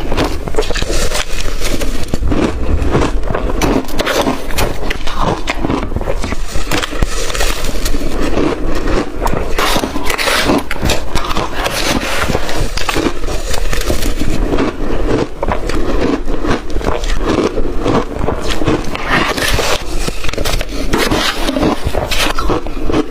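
Close-miked crunching of blender-crushed ice being bitten and chewed, a dense run of crackling crunches with no pause.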